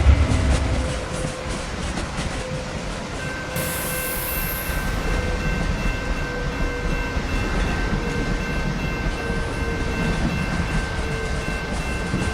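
A train running on rails: a steady rumble and rattle of wheels. About three and a half seconds in there is a brief high hiss, and thin high whining tones then hold steady over it.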